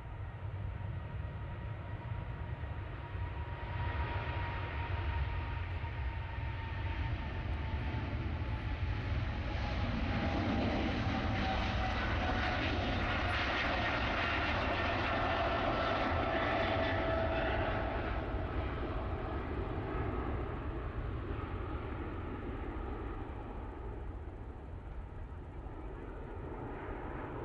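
Jet airliner's engines at takeoff power as it passes on its takeoff roll. The sound swells to a peak about halfway through, with an engine whine falling in pitch as the aircraft goes by, then fades over a steady low rumble.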